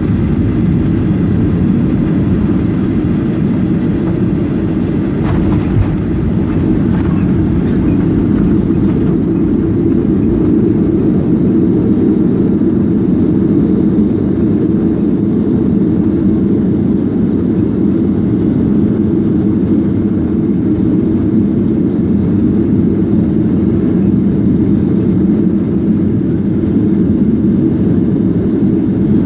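Cabin noise inside a Boeing 737-800 on approach: a steady, loud, low rumble of its CFM56 engines and the airflow past the fuselage. A few faint clicks come about five to seven seconds in.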